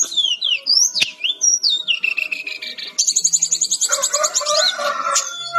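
Brown-chested jungle flycatcher singing a fast, varied song: whistled notes slide up and down, then from about three seconds in comes a rapid trill of repeated notes.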